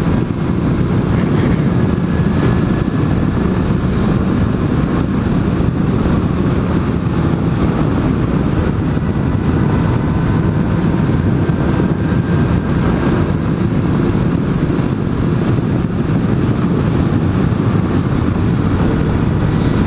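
A 600cc sport bike's engine running steadily at road speed, with a faint whine that drifts slowly in pitch, under heavy wind rush on the microphone.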